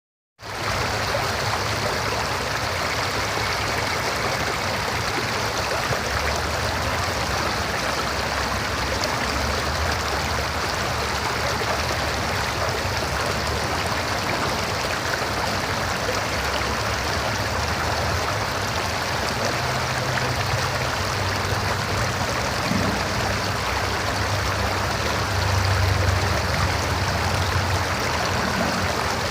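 River water flowing over rocks, a steady rushing and babbling with a low rumble underneath.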